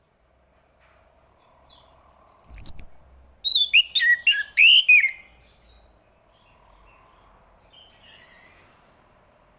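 Chestnut-capped thrush singing one short phrase: a high thin whistle sliding down, then a quick run of about five falling notes. The phrase starts about two and a half seconds in and lasts under three seconds.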